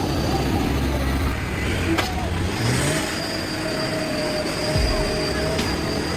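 A heavy truck's engine running with a steady rumble, and a thin whine about halfway through. There is a single sharp click about two seconds in.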